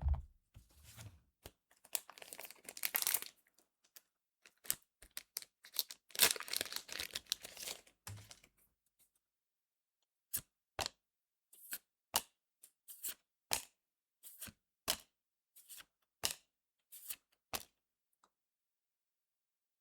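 A foil trading-card booster pack being torn open and crinkled, followed by about a dozen short, sharp snaps at an even pace as the cards are flicked through one by one.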